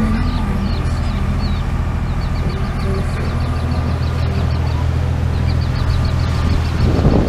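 Sailboat's engine running steadily with a low hum while motoring, and two runs of rapid high chirps partway through. Wind gusts on the microphone near the end.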